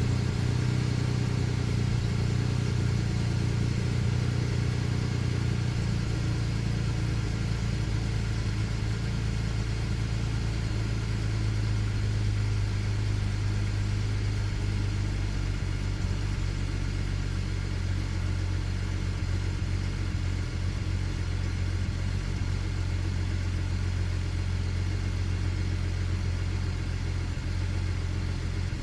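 BMW E90 335i's turbocharged straight-six idling on a cold start, the idle speed shifting rather than holding steady and settling lower about halfway through. The owner puts the hunting idle down to bad fuel injectors on cylinders 1 and 2.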